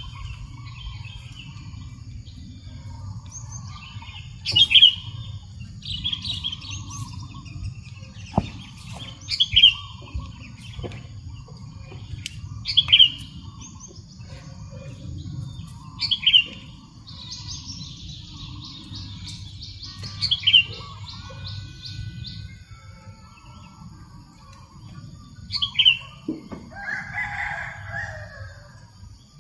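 Birds calling: a loud, sharp chirp repeats every three to four seconds, with a buzzy trill partway through and a lower, harsher call near the end. Wind makes a steady low rumble on the microphone underneath.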